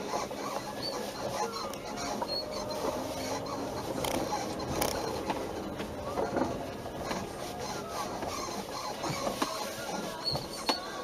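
Repeated squeaks from the body-side rubber bushings (silent blocks) of a Hyundai Sonata EF's rear upper control arm as the suspension moves.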